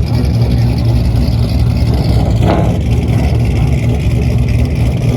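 A vehicle engine's steady low rumble, with one brief sharper sound about two and a half seconds in.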